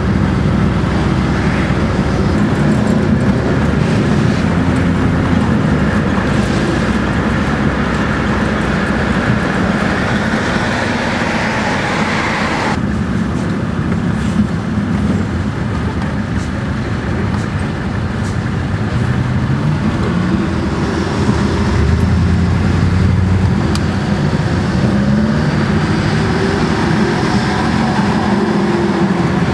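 Detroit Diesel 12V-71 two-stroke V12 diesel of an FTF heavy truck running, its engine speed rising and falling several times.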